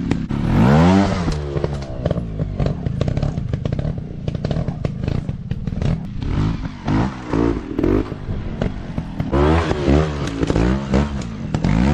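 Dirt bike engine revving up and down in repeated bursts, with rattling knocks throughout.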